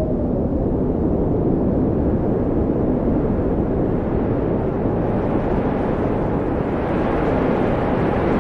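Wind blowing steadily with a low rushing sound; about halfway through, a gust builds and the rush turns brighter and hissier.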